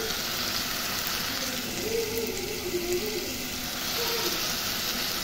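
Onions and spices frying in hot oil in a pan: a steady sizzle.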